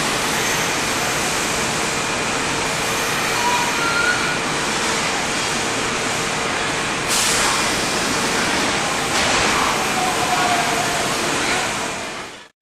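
Electric train running alongside a station platform: a steady, loud rolling noise with a faint hum and a sharp clank about seven seconds in, fading out at the end.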